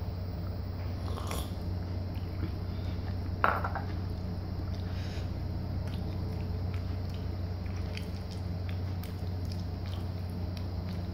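Quiet chewing and handling noises over a steady low hum, with one sharp ceramic clink about three and a half seconds in.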